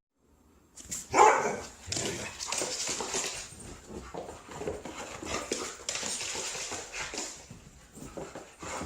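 Siberian husky barking and vocalizing, starting suddenly and loudly about a second in and then keeping up an almost unbroken run of barks and noisy vocal sounds.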